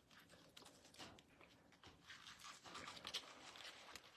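Faint, irregular rustling and soft crinkling of cabbage leaves being handled as a spoonful of meat filling is laid on and the leaf is rolled up.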